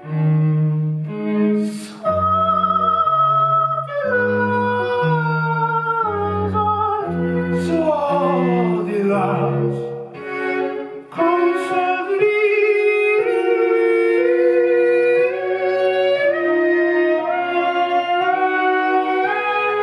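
Live chamber ensemble music with bowed strings: a low bass line steps through short notes beneath a held melody with a wavering vibrato.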